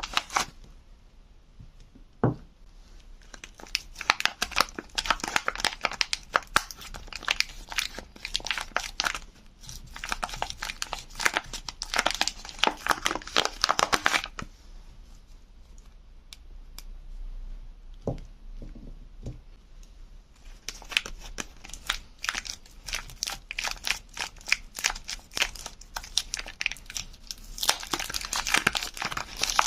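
Soap packaging being unwrapped by hand: wrapping crinkling and tearing in long bursts, with a quieter stretch in the middle and a couple of soft knocks.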